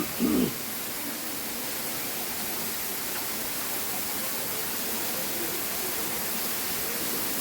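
A waterfall rushing steadily, an even noise of falling water.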